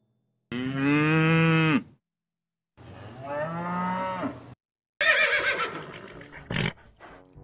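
Cow mooing: two long, drawn-out moos. They are followed about five seconds in by a horse whinnying with a quavering pitch that fades away.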